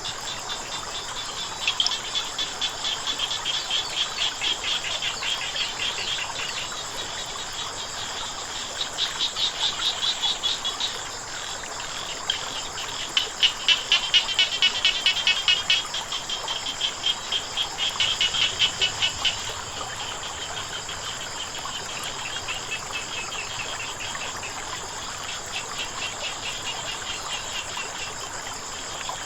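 Frogs calling in bouts of rapid pulsed croaks, loudest about halfway through, over a steady high insect drone and the faint hiss of running water.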